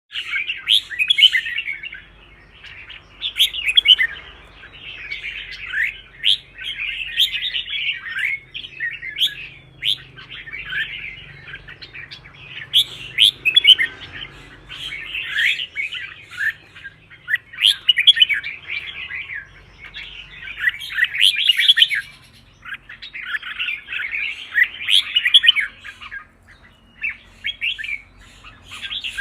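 Red-whiskered bulbul singing its competition song: bursts of quick, sliding whistled notes, one phrase every couple of seconds with short pauses between.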